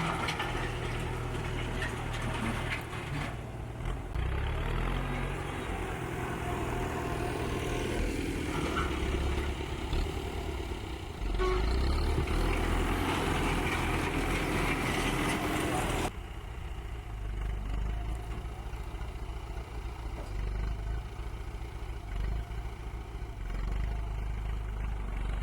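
Tractor engine running steadily. About sixteen seconds in, the higher-pitched noise drops away abruptly while the low engine note carries on.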